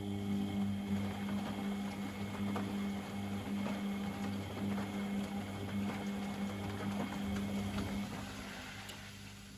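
Privileg Sensation 952 S top-loading washing machine running a motor with a steady hum that fades out near the end, over faint sounds of water and laundry moving.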